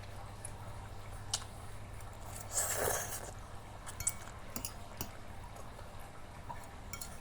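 Wet eating sounds of carbonara instant noodles being chewed, with scattered small clicks and one louder wet, hissing noise about three seconds in.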